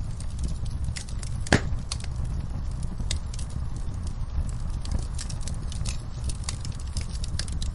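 Wood fire in a fireplace crackling, with irregular sharp pops over a steady low rumble of the flames; one louder pop about one and a half seconds in.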